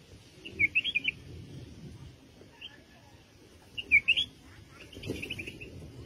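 A small bird chirping in short clusters of quick, high notes, four times over a few seconds.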